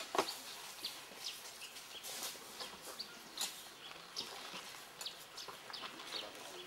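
Forest birds chirping: many short, high, falling calls scattered throughout, with a sharp knock just after the start.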